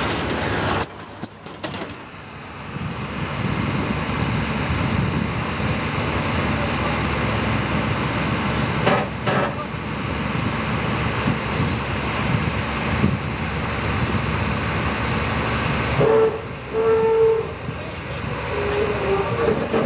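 Steady rumble of heavy engine machinery, with a quick run of loud knocks about a second in and a short pitched tone, like a horn, near the end.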